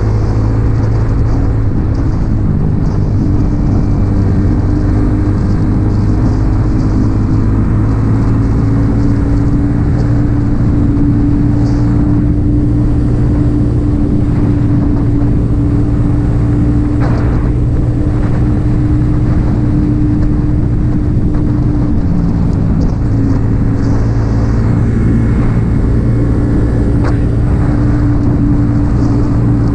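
Yamaha XSR 155's single-cylinder engine breathing through an aftermarket M4 exhaust, running steadily under way. Its note climbs a little over the first several seconds, holds, then eases slightly past the twenty-second mark.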